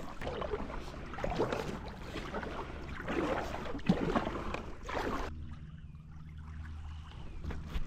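Water splashing and sloshing around a kayak, in irregular splashes about a second apart, which stops abruptly about five seconds in, leaving only a faint low hum.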